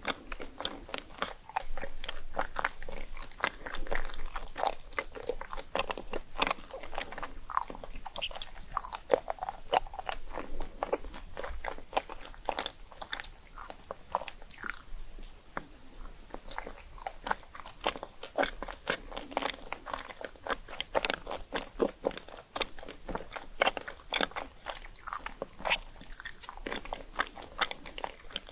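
A person biting and chewing crunchy rice cakes, a dense run of irregular crackling crunches.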